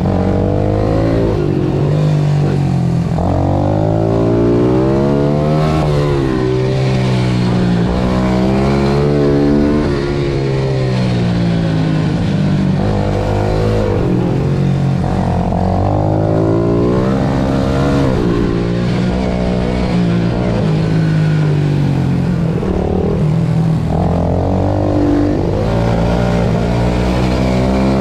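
Pit bike engine under racing load, its pitch climbing steeply through each gear and dropping back again and again as the bike accelerates and brakes for corners.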